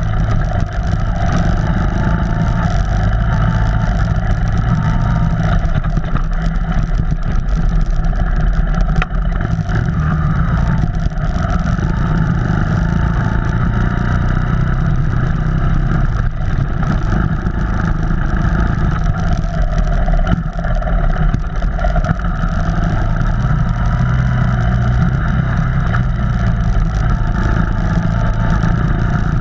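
Off-road vehicle engine running steadily while driving a trail, its pitch rising and falling a little with the throttle.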